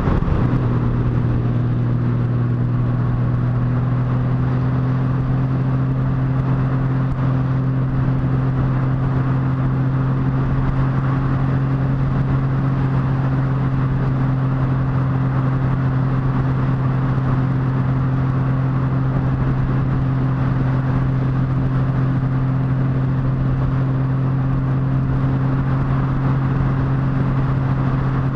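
Motorcycle engine running at a steady, unchanging speed while riding, a constant low drone over a steady rush of wind noise.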